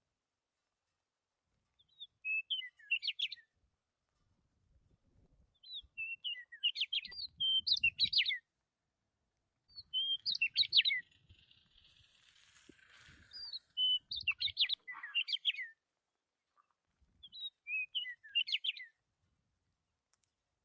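A small bird chirping and twittering in five short, rapid phrases, about one every four seconds.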